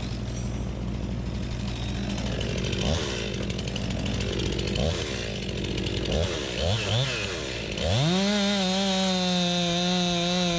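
STIHL MS 261 two-stroke chainsaw idling with a few short throttle blips, then opened up to full throttle about eight seconds in and held there at a steady high pitch.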